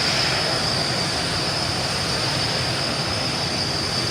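Jet aircraft engines running steadily: a loud rush with a constant high-pitched whine on top.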